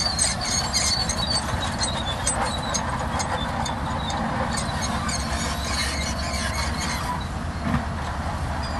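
Shantui DH17C2 crawler bulldozer working, its diesel engine running under a steady low rumble while the steel tracks squeal and clank. The squealing eases off about seven seconds in.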